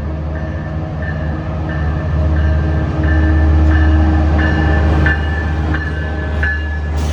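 Train running, with a heavy low diesel-engine rumble and a bell struck about once every two-thirds of a second.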